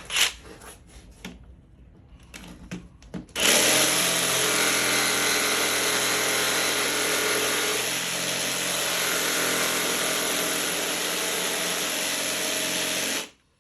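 A few handling clicks and knocks, then about three seconds in a power tool starts and runs steadily at one speed for about ten seconds before cutting off abruptly near the end.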